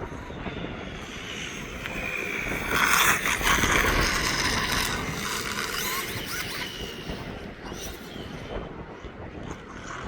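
Electric motor of a Losi ProMoto RC dirt bike whining as it rides, rising and falling in pitch with the throttle. A louder rushing noise comes in from about three to five seconds in.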